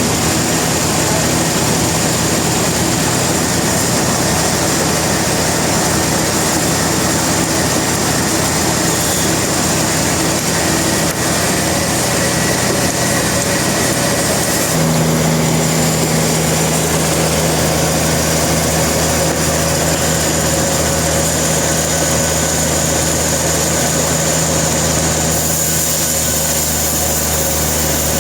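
Sawmill machinery running steadily and loudly, with a low hum. The hum's pitch changes abruptly about halfway through.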